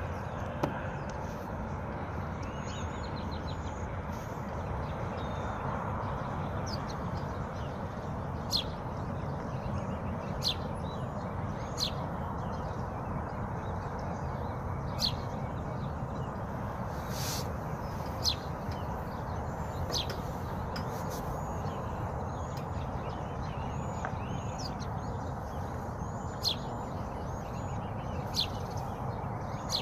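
Songbirds chirping over the steady rush of a waterfall. Many short, high chirps come throughout, and a sharper, louder call repeats about every one to three seconds.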